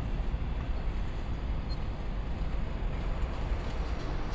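Steady low rumble of a freight train fading into the distance, heard over city background noise.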